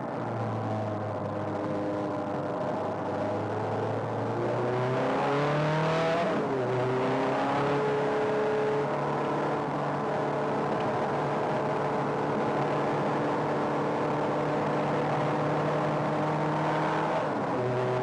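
Ferrari sports car engine heard from inside the cabin at speed on track. The revs climb for about two seconds, drop sharply about six seconds in, then hold a fairly steady pitch.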